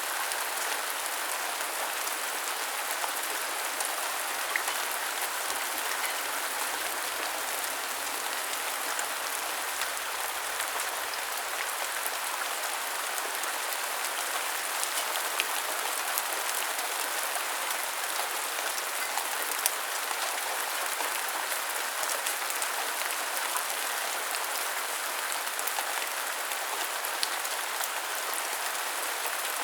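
Steady rain falling, a continuous hiss with scattered individual drops ticking on nearby surfaces.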